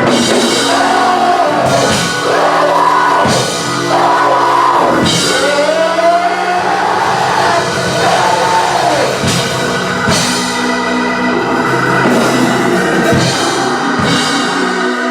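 Gospel church band music: sustained keyboard chords with drum kit and cymbal hits. Over it, a voice sings long sliding notes without clear words.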